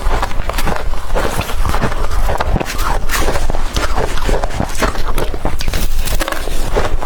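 Loud, close-miked chewing of blender-crushed ice: dense, irregular crunching and crackling.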